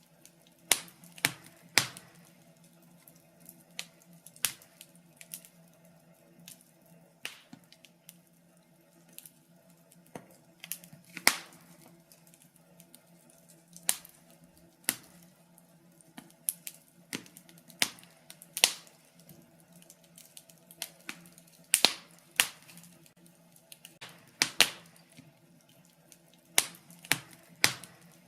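Wood fire in a fireplace crackling and popping: sharp snaps at irregular intervals over a faint steady hum.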